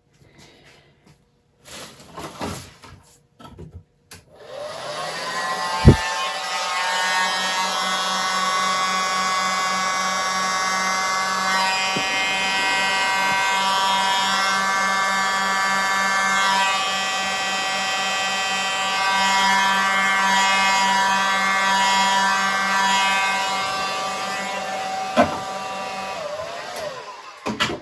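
Hairdryer switched on about four seconds in, running steadily with a motor hum, whine and rush of air, then switched off near the end. A sharp click comes shortly after it starts and another shortly before it stops.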